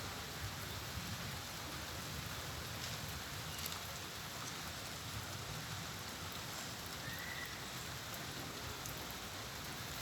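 Steady rain falling, a constant hiss with a few scattered drip ticks.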